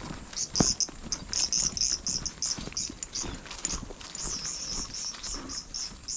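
An insect, cricket or cicada type, calling in a fast run of short high chirps, about four a second, with a short break near the middle. Footsteps on the ground knock underneath, the loudest about half a second in.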